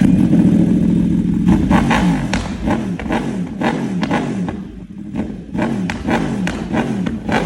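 Yamaha YZF sport bike's engine revving: held at high revs for a moment, then blipped again and again, rising and dropping in pitch, with sharp crackles mixed in.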